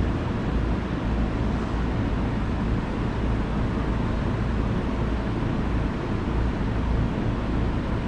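Steady low rumble of a commuter train and station platform noise on a railway platform, with no distinct clicks, announcements or horn.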